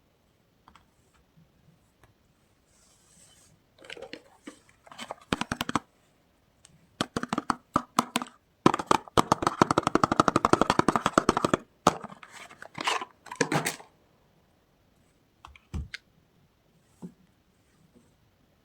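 Soap packaging being handled and unwrapped: scattered crinkles and clicks, with a few seconds of rapid continuous crackling about halfway through.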